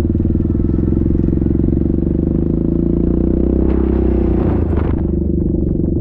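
Yamaha Grizzly 700 ATV's single-cylinder engine running steadily under way, its pitch climbing slightly a few seconds in. A brief rush of hiss comes near the middle.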